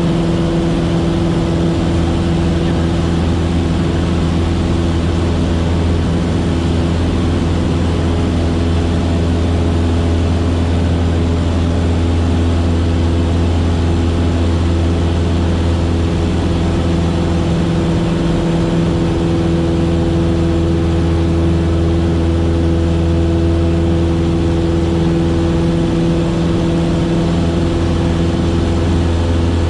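Cessna 152's four-cylinder Lycoming O-235 engine and two-blade propeller making a steady, loud drone at constant power, heard from inside the small cabin.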